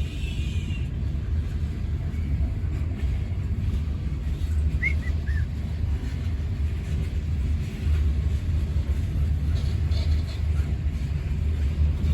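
Freight train of tank cars rolling slowly past, a steady low rumble, with a faint brief squeal about five seconds in.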